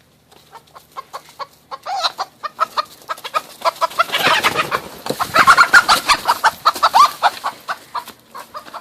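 Chickens clucking in a quick run of short calls that grows louder and denser about four seconds in, then thins out near the end.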